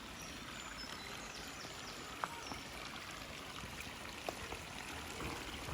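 Shallow river water running steadily over stones, a constant rushing wash. A few short, high chirps come through in the first couple of seconds.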